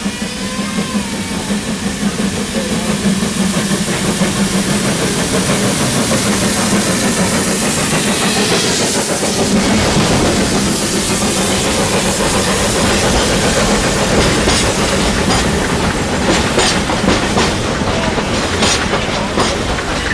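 Ex-South African narrow-gauge steam locomotive NG123 running close by, with a steady steam hiss. In the second half a rapid run of clicks joins in, like wheels passing over rail joints.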